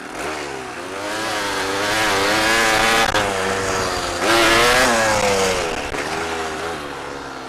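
Dirt bike engine revving up and down as it is ridden, its pitch rising and falling several times and loudest about four to five seconds in.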